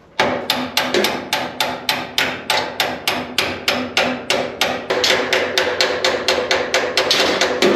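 Rapid, even hammer blows on metal, about four to five strikes a second, each with a short metallic ring, knocking at the truck's steel bed-hinge hardware to free it.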